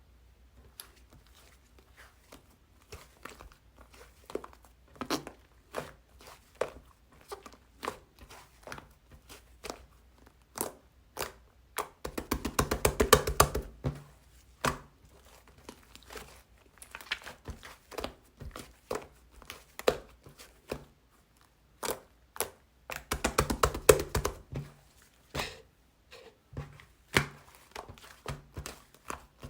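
Handmade foam slime worked by hand, making many short sticky clicks and pops. Twice, about twelve seconds in and about twenty-three seconds in, it gives a spell of dense, rapid clicking that is the loudest part.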